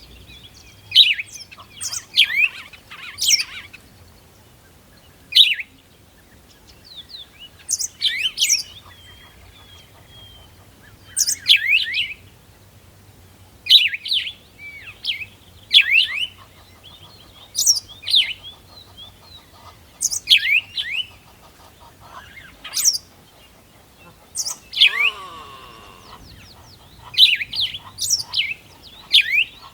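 Birds chirping: short, sharp, downward-sliding chirps repeated every second or two, often in pairs or triplets. Near the end, a longer, lower-pitched call lasts about a second.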